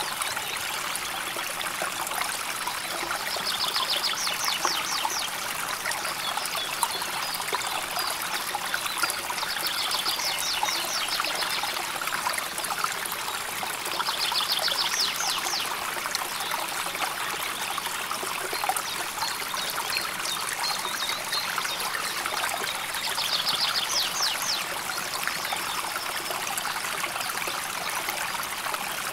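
A shallow river or stream trickling and burbling steadily. A small bird's short, high, rapid trill sounds five times over it, about every five seconds.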